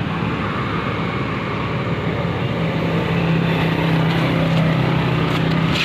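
Ketinting longtail-boat engine running steadily, picking up a little about three seconds in.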